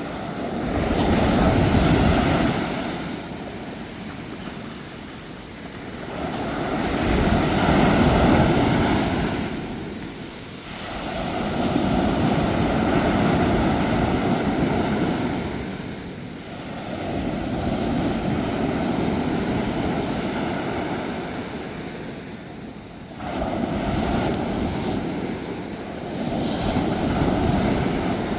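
Ocean waves breaking and washing on the shore, the surf swelling and falling back in surges about every five or six seconds.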